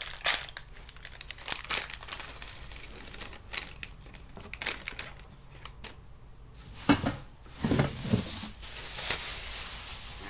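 Parts and packing of a flat-pack storage cart being taken out of its box: small clicks and clinks of loose pieces and screws for the first few seconds, then a long stretch of packaging crinkling and rustling from about seven seconds in.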